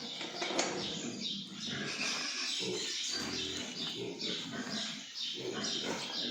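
Pigs in a pen calling, a dense run of short grunts and squeals.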